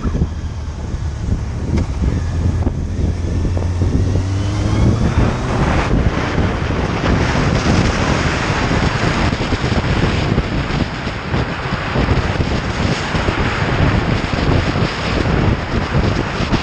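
Motorcycle riding at speed, with heavy wind noise on the microphone. For the first few seconds the engine's low note is heard and its pitch rises as the bike accelerates. After that, wind rush drowns it out.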